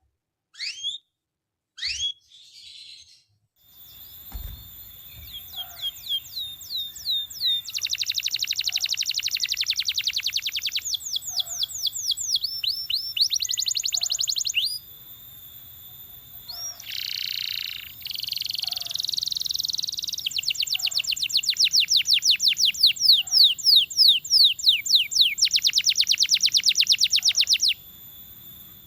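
Domestic canary singing: a few short chirps, then from about four seconds in a long song of fast trills and rapid runs of repeated sweeping notes, broken by brief pauses.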